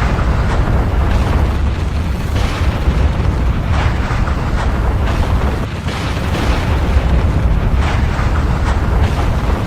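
Volcano erupting: a continuous deep rumble with sudden crackling blasts every second or two.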